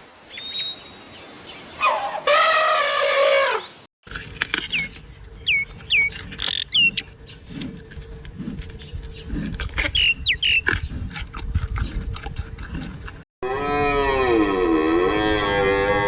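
Separate farm animal clips cut one after another: a short call that rises in pitch, then several seconds of sharp clicks with short high falling chirps, then a long cow moo that dips in pitch and levels off near the end.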